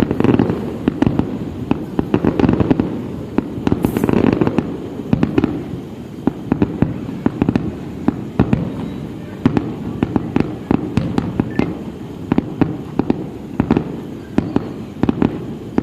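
Fireworks display: a rapid, irregular string of sharp bangs and cracks over a continuous low rumble of overlapping bursts.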